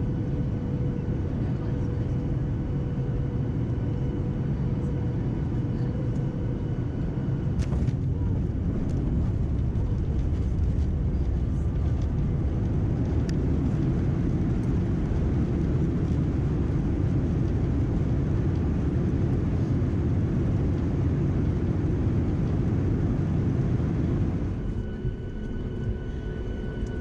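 Boeing 737 cabin noise on arrival: a steady engine and airflow roar. A sharp knock about eight seconds in is followed by louder roar, which falls off sharply near the end.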